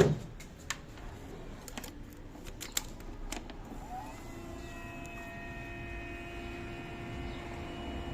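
Clicks and light rattles on a Honda CBR600RR as it is readied for a cold start, with one sharp click first. About four seconds in a steady electric whine begins and holds, the sound of the bike's electrics or fuel pump with the ignition on before the engine is cranked.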